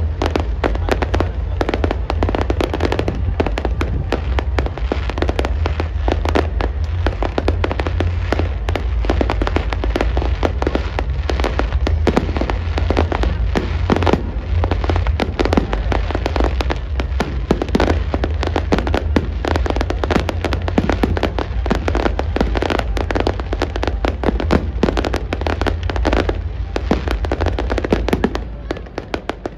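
Aerial fireworks display in a dense barrage: rapid overlapping bangs and crackles over a steady deep rumble, thinning out near the end.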